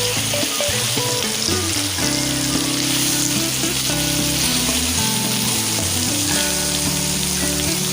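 Chicken pieces sizzling as they fry in hot oil with sautéed garlic, onion and ginger, a steady crackling hiss. Background music with held low notes plays under it.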